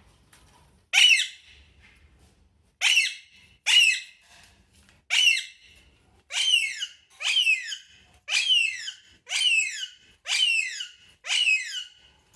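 A pet parrot giving ten short, shrill calls, each falling sharply in pitch, repeated roughly once a second.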